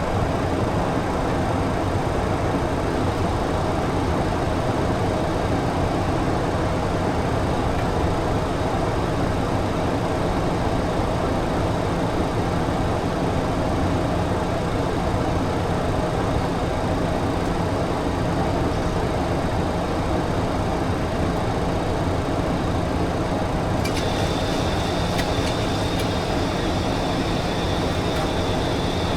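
Steady cockpit noise of a Boeing 737-800 in flight: an even rushing hiss of airflow with a low hum and a faint steady mid-pitched tone. Near the end a click is followed by a faint steady high whine that joins it.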